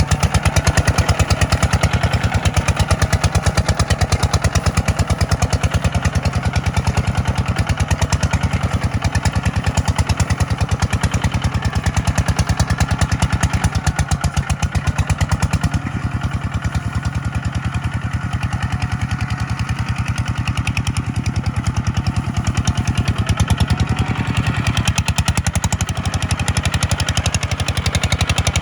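Tractor engine running steadily under work, its firing pulses even throughout; the sound eases off a little about halfway and comes back up near the end.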